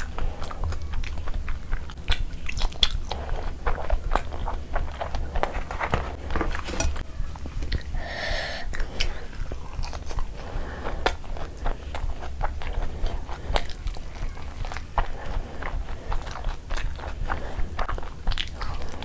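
Close-miked eating sounds: a person chewing and biting gravy-soaked food eaten by hand, with wet smacking and many small mouth clicks, over a steady low hum.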